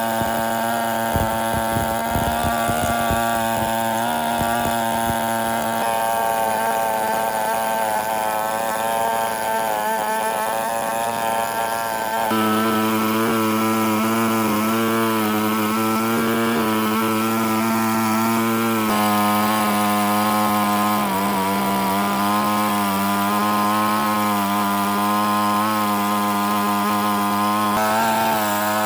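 A woodworking power tool's motor running steadily and loudly, its sound stepping up about twelve seconds in and shifting again around nineteen seconds.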